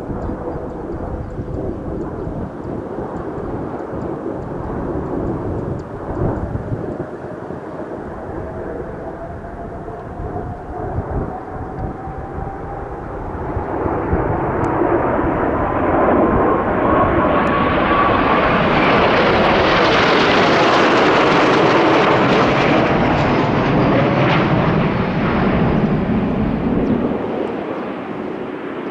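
Kawasaki T-4 jet trainers flying past. The jet noise builds with a whining tone that climbs steadily in pitch, grows loudest past the middle as they pass, then eases off near the end.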